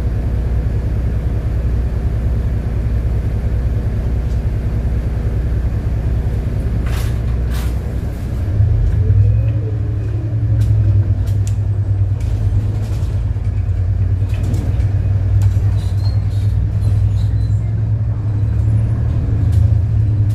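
City bus engine running under way, heard from inside the bus. About eight seconds in the engine note shifts and pulls harder, with scattered clicks and rattles from the bus.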